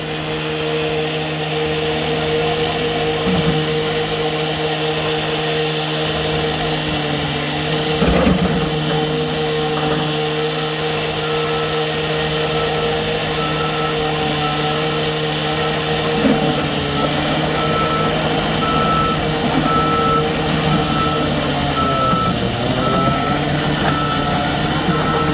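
Heavy equipment diesel engine running steadily, with a couple of knocks. From about eleven seconds in, a machine's backup alarm beeps roughly once a second. The engine's pitch dips briefly near the end.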